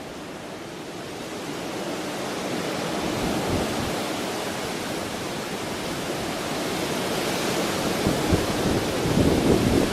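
Nor'easter storm noise of wind and rushing water: a steady rushing hiss that slowly builds, with gusts buffeting the microphone in low thumps near the end.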